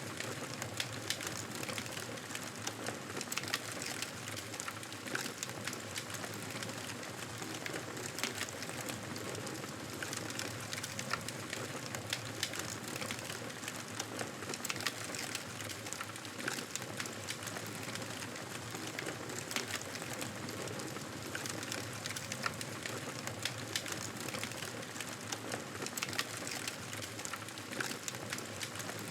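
Wood fire crackling steadily: a constant hiss dotted with frequent sharp pops and snaps.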